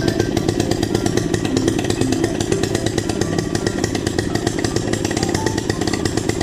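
Honda 2 hp single-cylinder four-stroke outboard motor running steadily.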